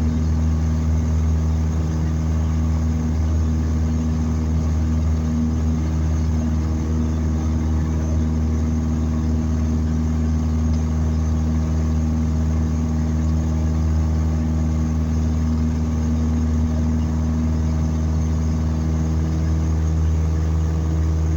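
Light aircraft's piston engine and propeller droning steadily at constant power, with an even, unchanging pitch.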